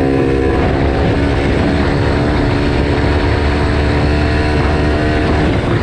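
Yamaha TT-R125 dirt bike's single-cylinder four-stroke engine running at a fairly steady speed under way, with little change in pitch.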